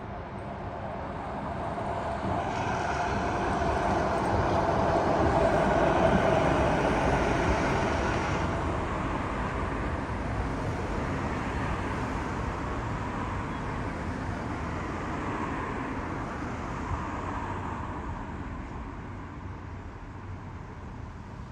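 Road vehicle driving past: engine and tyre noise growing louder to a peak about six seconds in, then slowly fading away.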